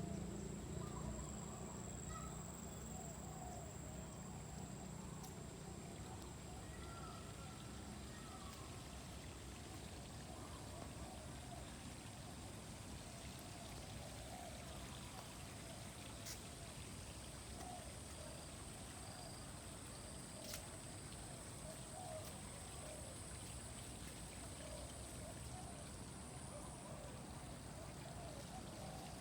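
Steady wash of running water, with a thin, high, steady tone above it and scattered faint chirps.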